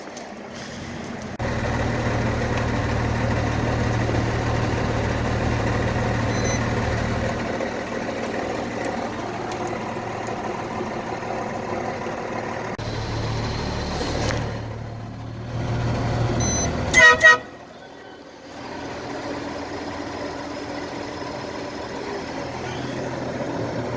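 Military truck's diesel engine running steadily at low revs. About two-thirds of the way through, a vehicle horn gives two short toots.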